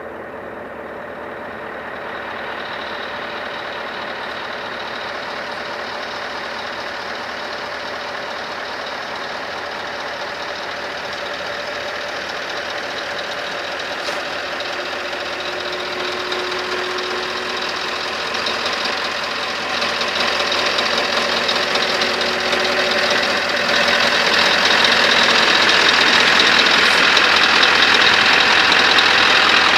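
Scania R500 truck's diesel engine running, growing steadily louder in several steps over the half minute.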